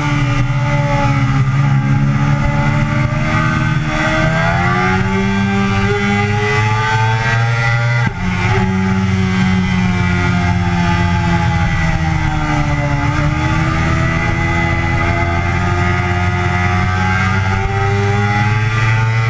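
Yamaha sport bike engine heard onboard at track speed, its pitch climbing under throttle, with a sudden drop about eight seconds in as it upshifts, then easing off and climbing again, over steady wind rush.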